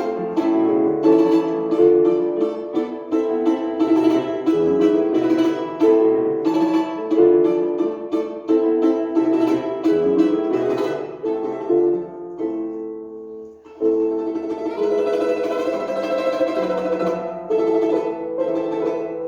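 Live music on plucked string instruments, a quick run of plucked notes in a melody, easing off briefly about two-thirds of the way through before the playing picks up again.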